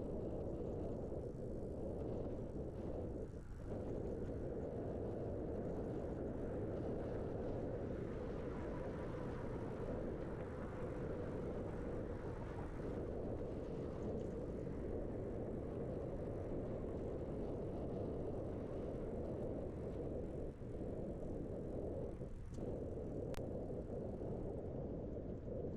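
Steady wind rush on the microphone of a riding cyclist's camera, mixed with bicycle rolling noise, a constant low rumble with no distinct events.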